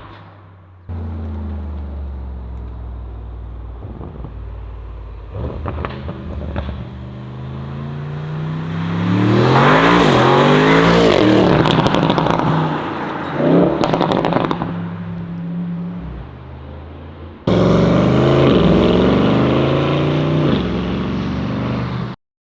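Tuned Audi RS6 C8's twin-turbo V8 with an aftermarket exhaust accelerating hard through the gears: the pitch climbs, drops back at each upshift and climbs again. Loudest at full throttle about halfway through; after an abrupt jump about three quarters of the way in, another hard pull that cuts off suddenly near the end.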